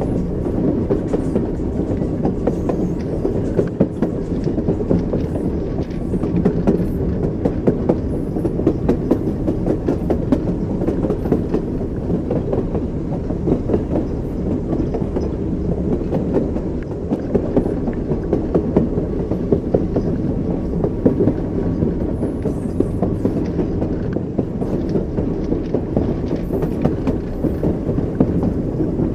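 Train wheels rolling over the rails with a steady rumble, and a continual run of small clicks and clacks from the wheels passing rail joints.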